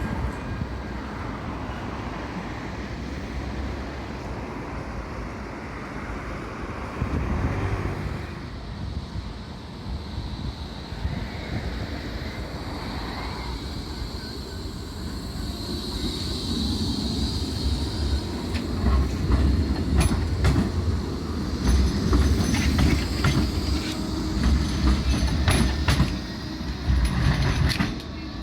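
Blackpool tram running along street track with a steady low rumble, a brief high wheel squeal about halfway through, and a louder run of sharp clicks and knocks from the wheels over the rails in the last third.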